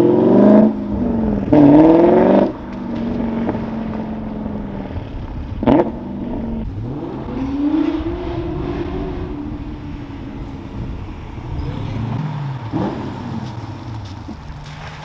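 Car engine accelerating hard, its pitch climbing and dropping back at two quick upshifts in the first couple of seconds, then settling into a lower drone that rises and falls with the throttle. A short sharp crack is heard about six seconds in and again near the end.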